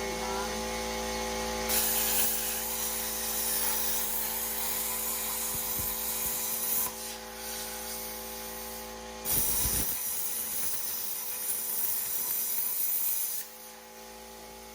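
Hobart 27i air plasma cutter cutting steel in two long hissing runs, the first about 5 seconds and the second about 4 seconds, over a steady electrical hum. The hiss stops shortly before the end.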